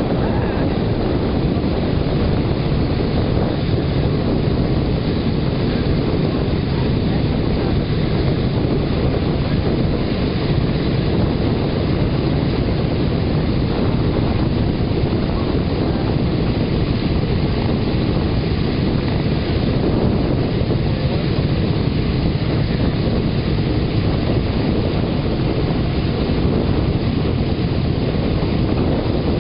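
Boeing B-17's four Wright Cyclone nine-cylinder radial engines running with a steady, deep rumble, mixed with wind buffeting the microphone.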